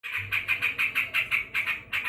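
Sooty-headed bulbul giving a fast, scratchy chattering call of about five notes a second, the agitated call of an angry bird.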